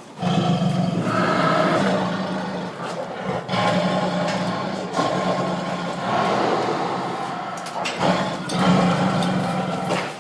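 Tiger roaring and growling: a run of long, rough roars, each lasting a couple of seconds and starting afresh about every two to three seconds.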